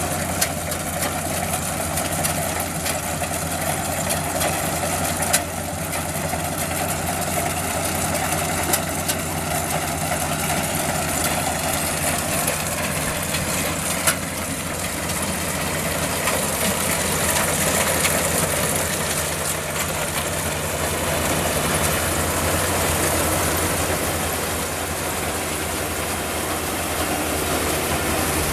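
Kubota DC-35 combine harvester's diesel engine running steadily, with two sharp clicks, one about five seconds in and one about fourteen seconds in.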